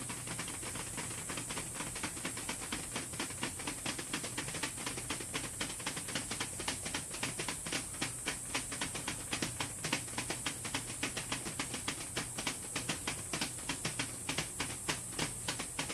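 A vacuum former's heater runs with a steady hiss while the plastic sheet heats, and rapid uneven ticking comes from the sheet, about five or six ticks a second. This is the heating stage before the sheet tightens and starts to sag.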